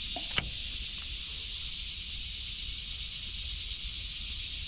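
Steady, high-pitched chorus of insects, with one sharp click about half a second in.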